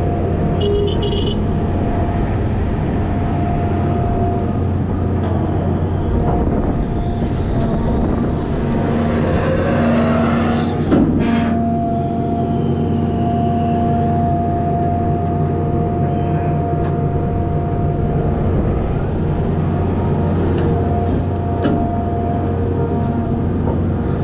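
Volvo A25G articulated haul truck's diesel engine running steadily under way, with a steady whine on top. The whine rises around ten seconds in, and there is a single sharp knock at about eleven seconds.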